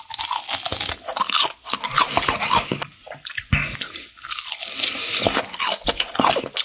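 Close-up crunching and chewing of crispy old-style Korean fried chicken, a drumstick, its thin fried skin crackling in uneven bursts of bites and chews.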